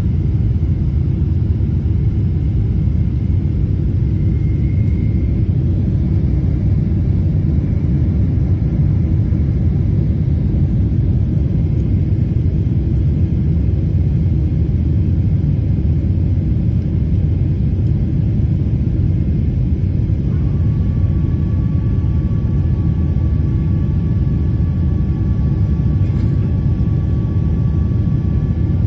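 Steady low rumble of an airliner's cabin noise during landing, heard from beside the wing. A faint steady whine joins about two-thirds of the way through.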